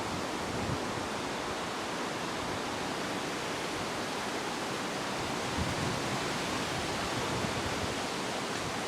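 Wind making a steady rushing noise, with a few brief low buffets of wind on the microphone.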